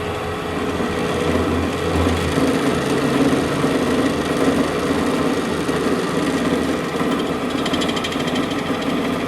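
A workshop machine running steadily. Near the end a fast, fine rattle joins in.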